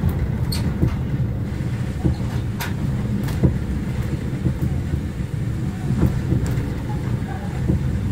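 Railway carriage running along the track, heard from inside the coach: a steady low rumble with a few sharp clicks of the wheels over rail joints.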